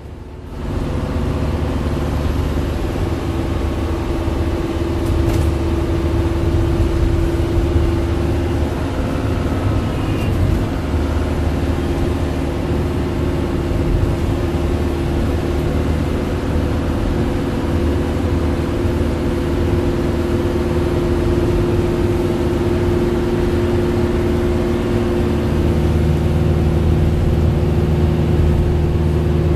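Road vehicle driving at a steady pace: a steady engine hum over low road rumble, rising a little near the end.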